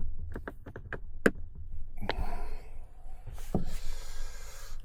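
Handling noises from a Dunkin' takeout bag being unpacked: a quick run of light taps and clicks, then rustling, with one thump about three and a half seconds in.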